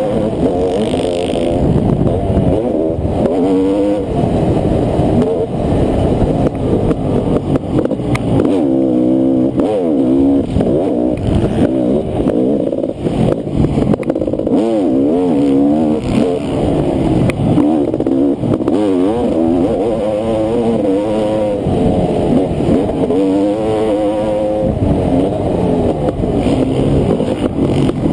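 Honda CR500 two-stroke single-cylinder motocross engine racing, its pitch rising and falling again and again as the throttle is opened and chopped and the gears change.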